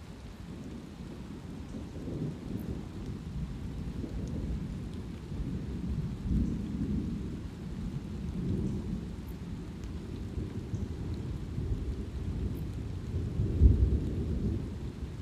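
Low rolling thunder over light rain, with scattered raindrop ticks. The rumble comes in waves, builds from about two seconds in and is loudest near the end.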